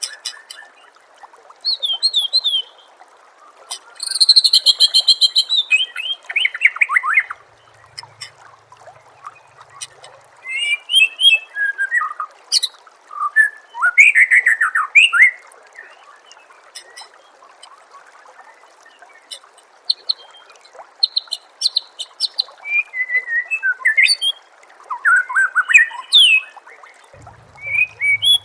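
White-rumped shama (murai batu) singing loud, varied phrases: fast repeated whistles, high buzzy rattles and falling slurred notes. The phrases come in bursts a few seconds apart, with a pause of several seconds past the middle, over a steady soft hiss of trickling water.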